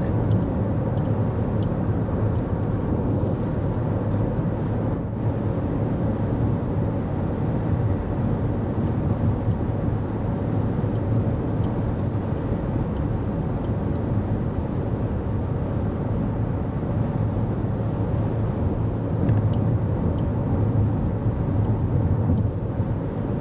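Steady road noise inside the cabin of a 2024 Toyota Corolla Cross cruising on the interstate: tyre roar and engine hum with no changes.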